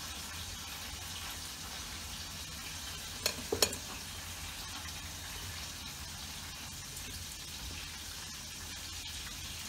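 Flour-coated chicken pieces deep-frying in hot oil, a steady sizzle. Two short knocks come a little past three seconds in, as floured potato pieces are dropped into a stainless steel colander.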